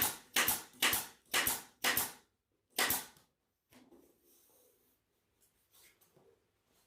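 A staple gun firing staples through pool table bed felt, about six quick shots in the first three seconds, then faint handling of the felt.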